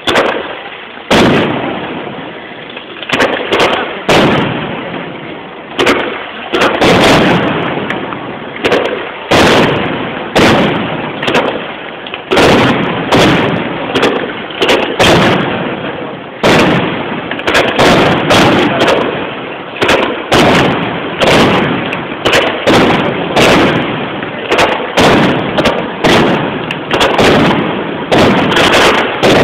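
Aerial fireworks shells bursting in quick succession, loud bangs about one or two a second, each trailing off in an echo.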